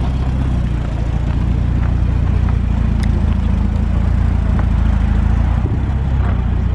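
A vehicle engine running steadily at low revs close by, a deep even rumble with a few faint ticks over it.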